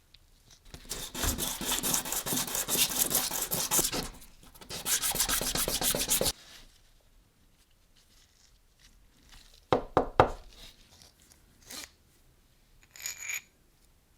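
Rapid, rhythmic rubbing or scraping strokes on a hard surface in two runs, the second stopping abruptly. A few sharp knocks follow later.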